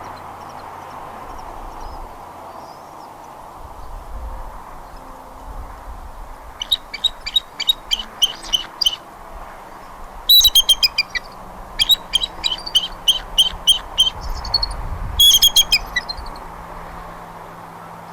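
Bald eagle calling: four bouts of rapid, high, staccato chirping notes, about four a second, over a steady background hiss.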